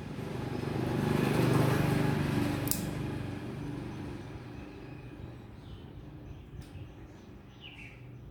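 A motor vehicle passing by, loudest about a second and a half in and then fading away, with birds chirping near the end.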